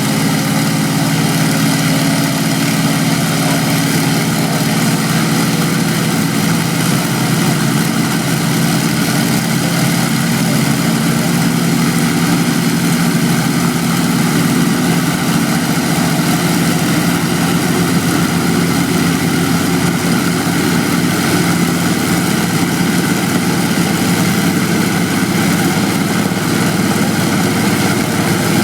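Aircraft piston engine running steadily at a constant speed on a display stand, with a loud, unchanging low drone.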